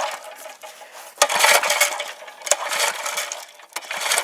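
Recoil starter of a Briggs & Stratton engine on an Ariens tiller being pulled three times, about a second apart, each pull a short metallic rattling rush; the engine, on full choke and full throttle for a cold start, does not catch.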